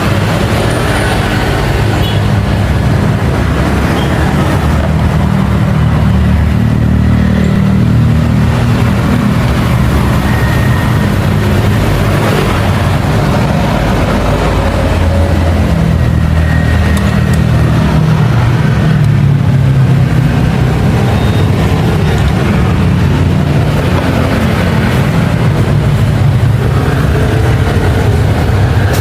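An engine running steadily, its low hum drifting gently up and down in pitch.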